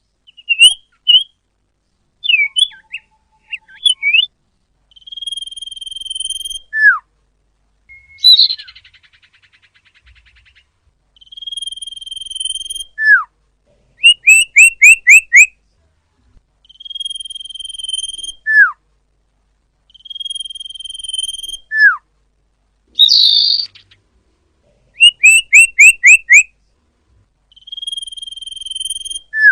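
Common iora (cipoh/sirtu) song, a lure recording. It repeats long, steady whistled notes, each followed by a sharp downward slur, and alternates them with quick runs of about five rising chirps and an occasional harsh, buzzy call.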